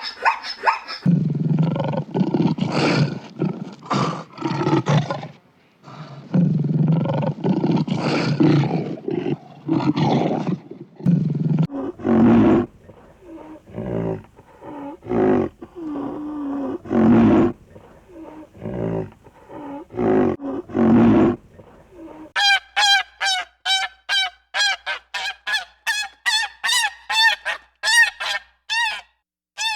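Farm animal calls in turn: low, drawn-out calls for about the first twelve seconds, then shorter separate calls, then a fast run of honking calls, about two a second, over the last eight seconds.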